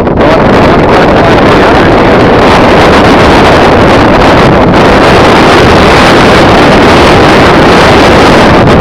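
Loud, steady wind blasting the microphone, a rushing roar that covers everything else.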